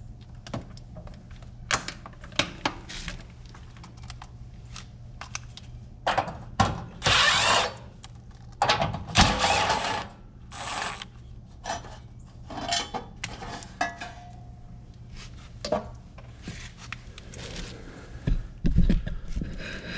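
Hand work on an HVAC air handler: scattered clicks, knocks and scraping of tools and metal panel. Two loud whirring bursts of about a second each, from a power tool, come near the middle, over a steady low hum.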